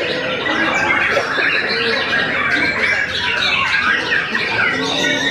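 White-rumped shama singing nonstop: a dense, unbroken stream of quick varied whistles, chatters and harsh notes.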